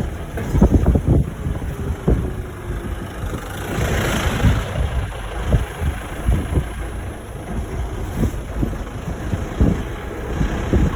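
Wind buffeting the microphone over a low, uneven rumble, with a brief rush of hiss about four seconds in.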